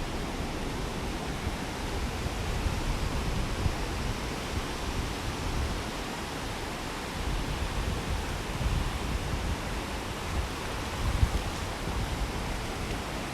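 Steady rush of surf on a beach, with gusts of wind on the microphone.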